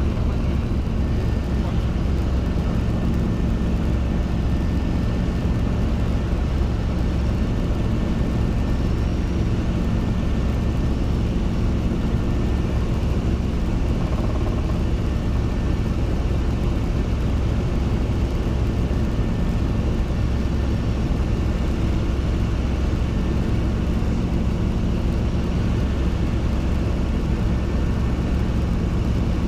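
Robinson R22 helicopter in flight: steady, unchanging engine and rotor drone.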